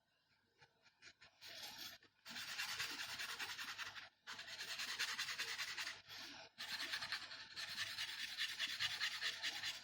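Paintbrush bristles scratching and rubbing over a small painted wooden figure in several long strokes, starting about a second and a half in, with brief pauses between them.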